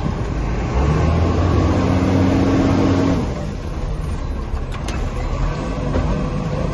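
Garbage truck engine running, revving up for about two seconds with a strong low drone, then dropping back to a steady run.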